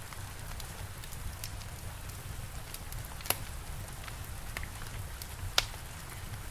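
Steady rain hiss with a fire crackling over it: faint ticks throughout and two sharp pops, about three and five and a half seconds in.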